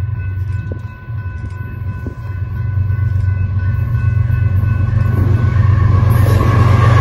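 BNSF diesel freight locomotives hauling a double-stack intermodal train approach and draw close, their engine rumble growing steadily louder. A steady chord of high tones fades out about five seconds in. Wheel and rail noise builds near the end as the locomotives come alongside.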